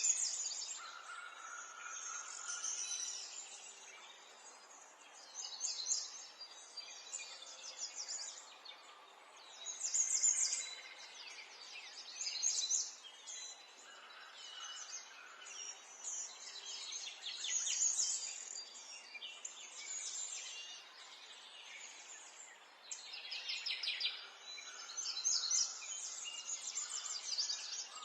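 Songbirds chirping and singing, with many short phrases of rapid high chirps overlapping one another every second or two, over a faint steady background hiss.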